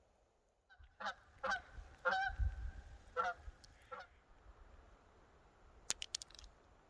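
Geese honking, five short calls over about three seconds, followed by a few sharp clicks near the end.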